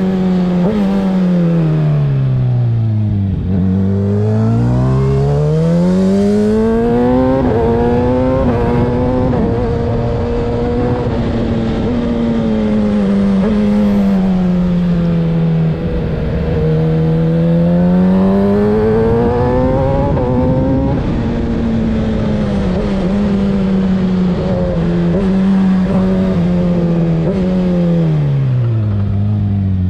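Kawasaki ZX-6R 636 inline-four through a Graves aftermarket exhaust, ridden hard on a twisty road: the engine note climbs through the gears with short steps at each shift, then drops low as the rider rolls off for a corner. It falls back three times, about three seconds in, midway, and near the end, each time rising again on the throttle.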